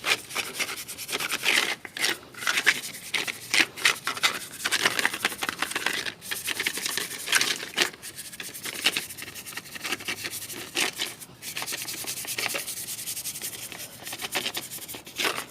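Repeated, irregular scrubbing and rubbing strokes on a surface, with brief pauses between runs of strokes.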